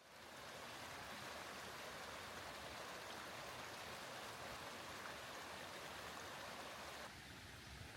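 Steady rushing of flowing water, a stream running.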